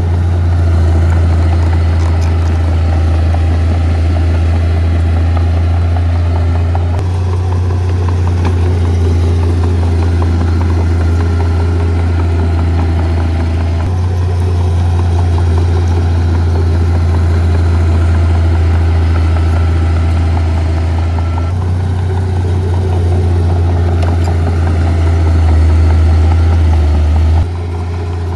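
Heavy diesel engine of earthmoving equipment running with a steady low drone. The sound shifts abruptly several times.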